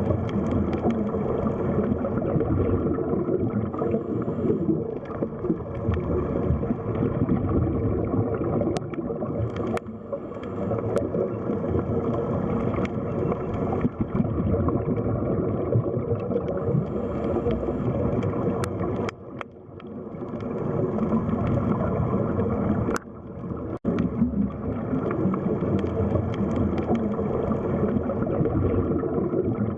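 Underwater ambience: a dense, muffled rush and gurgle of water with a faint steady hum, broken by a few sharp clicks and two brief dips in level in the second half.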